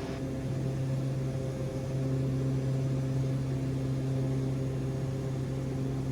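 Cabin drone of a Cessna Conquest 441's twin Garrett TPE331 turboprop engines and propellers at climb power: a steady low hum with a few even tones over it, a touch louder about two seconds in.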